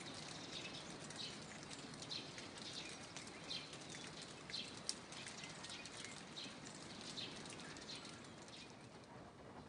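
Birds calling outdoors: short high chirps about once a second over a faint hiss with fine ticking, and one sharp click about halfway through.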